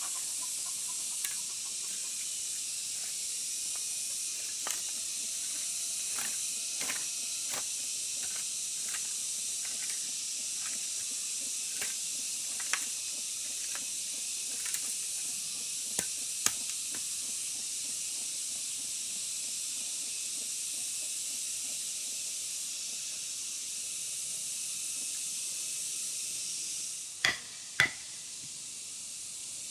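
A steady high hiss throughout, with scattered sharp clicks and knocks, and two louder knocks close together near the end.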